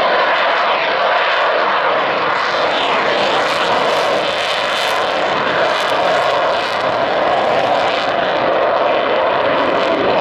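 Loud, steady jet engine noise from an F-35A Lightning II's single Pratt & Whitney F135 turbofan in flight, the high hiss wavering from about three seconds in.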